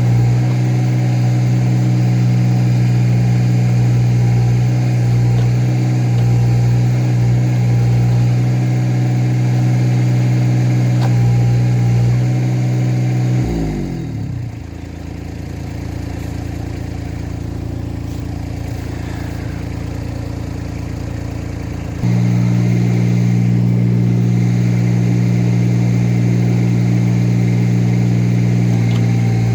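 An engine running at a steady speed. About 13 seconds in its pitch slides down and it runs lower and quieter, then near 22 seconds it jumps suddenly back to the earlier steady speed.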